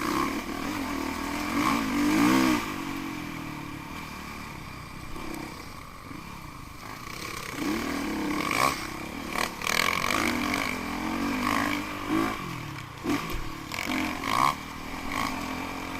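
Enduro motorcycle engines revving up and down over and over, with several loud surges.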